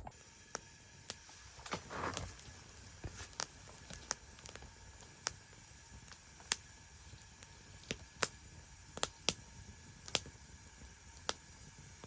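Wood fire burning in a secondary-combustion fire pit, giving off irregular sharp crackles and pops. A brief soft rustle comes about two seconds in.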